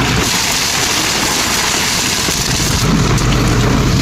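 Steady engine of construction machinery running at a constant pace during RCC concrete work, a low hum under a loud, even hiss.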